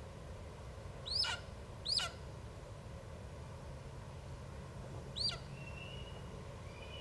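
A bird calling three times: short, high, sharply descending calls, two close together and a third a few seconds later.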